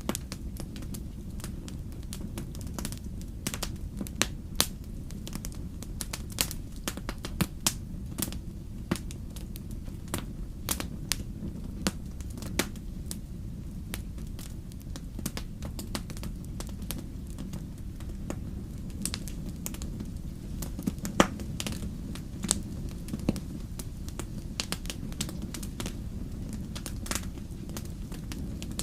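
Wood fire burning in a fireplace: irregular sharp crackles and pops over a steady low rumble of the flames, with the loudest pop about 21 seconds in.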